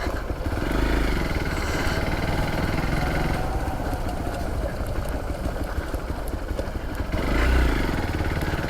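Dirt bike engine running as the bike is ridden, growing louder with more throttle from about half a second in and again briefly near the end.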